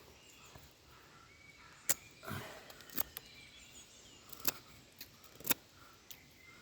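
Morakniv Robust knife blade carving bark off a wooden stick: a handful of crisp, separate cuts, about five, spread over a few seconds. The crisp sound of the cuts is a sign the edge is still fairly sharp.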